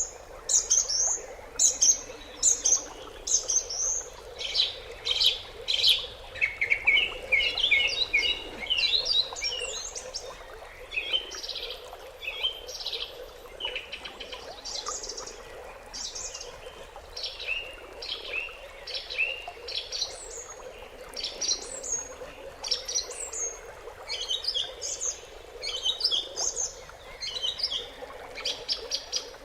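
Small birds chirping, with many short, high calls following one another without a break. A quick run of lower notes comes about a quarter of the way in.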